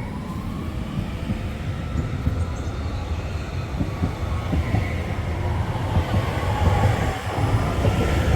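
Northern Class 331 electric multiple unit train on the move, a low rumble with wheel and rail noise growing steadily louder, and a faint rising motor whine near the start.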